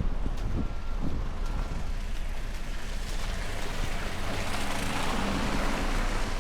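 A vehicle driving past on a snowy street: its tyre hiss and engine hum swell about four seconds in. Wind buffets the microphone throughout.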